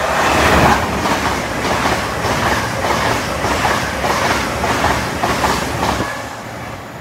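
A Class 801 Azuma electric train passes at speed. The noise swells sharply as the front goes by, then holds as a rhythmic clatter of wheels on the rails, and it fades near the end as the last coaches go by.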